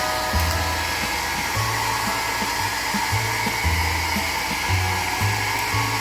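Hand-held hair dryer blowing steadily, drying a pet's wet coat after a bath.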